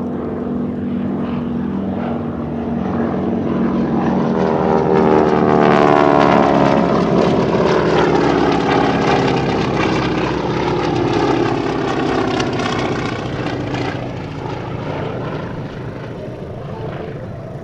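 A formation of North American T-6/SNJ Texan trainers, with Pratt & Whitney R-1340 radial engines and propellers, flying past. The sound builds, peaks about six seconds in with its pitch dropping as the planes go by, then fades away.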